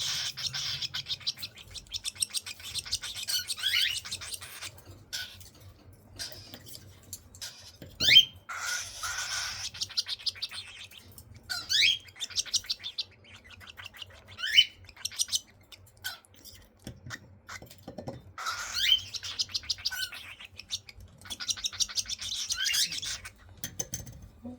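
Baby cockatiels calling: bouts of rapid raspy chirping, broken by short rising squeaks, several times over.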